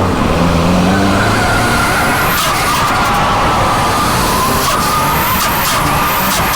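Turbocharged SR20DET engine in a Nissan S13 running hard. Its turbo whistle rises to a very high pitch several times, each time followed by short bursts of hiss, over a steady wavering mid-pitched tone.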